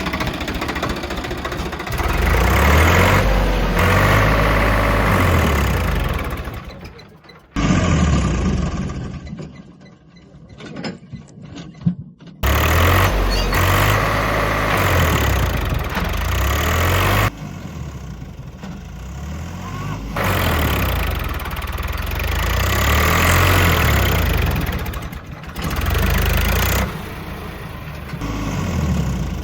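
Diesel tractor engines running and revving under heavy pulling load, in a string of clips that cut off abruptly every few seconds.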